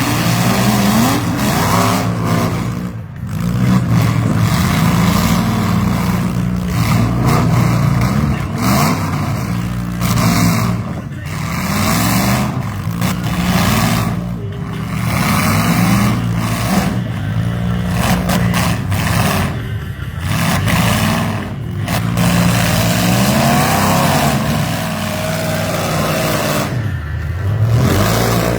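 Engines of vans, SUVs and mini trucks revving hard over and over in a demolition derby, several at once, the pitch rising and falling every second or two as the drivers accelerate and back off.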